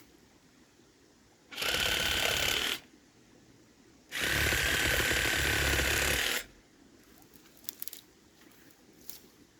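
Reciprocating saw run in two bursts, the first about a second long and the second about two, cutting through broom stems.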